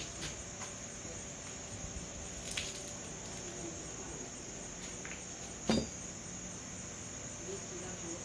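Crickets chirring steadily and high-pitched, with a sharp knock about two-thirds of the way through and a fainter click a little before it.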